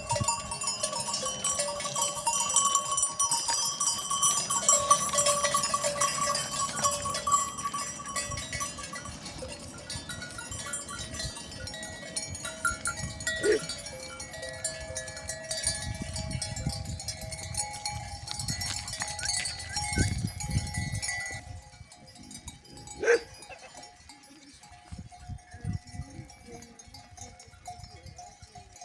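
Metal neck bells on a flock of livestock, clanking and jingling as the animals move, loudest at first and thinning out later, with a few short animal calls.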